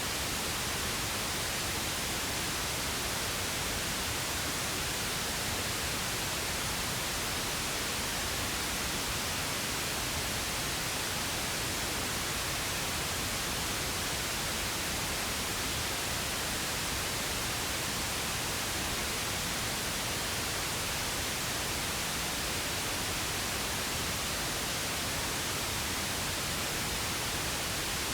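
Steady, unbroken pink noise, an even hiss with no changes or events.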